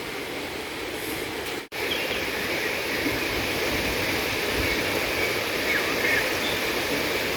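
Steady outdoor summer ambience: an even rushing hiss with a high steady drone and a few faint bird chirps. It cuts out for an instant a little under two seconds in.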